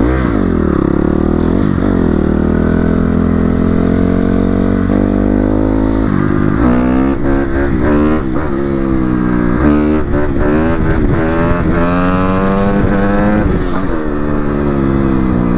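Dirt bike engine running under way. It holds fairly steady at first, then revs up and down in pitch again and again through the second half as the throttle is worked.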